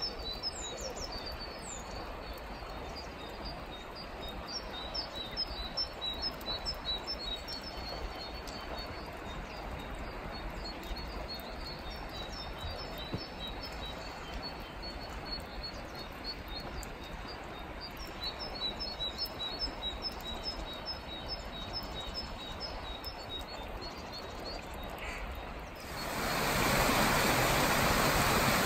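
Small birds twittering in series of short, high, repeated chirps over a faint background rush. Near the end this gives way abruptly to the louder, steady rush of a stream running over rocks.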